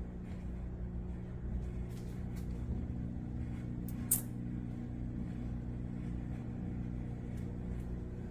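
Steady low electrical or mechanical hum, with a single sharp click about four seconds in.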